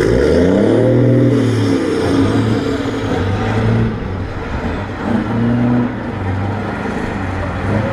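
Scania V8 truck engine revving up at the start, then running hard with its note swelling and easing every second or so.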